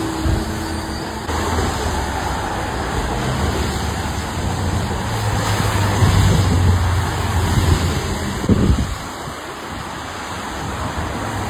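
Steady road and traffic noise with wind on the microphone, and a low engine hum through the middle that swells briefly near the end.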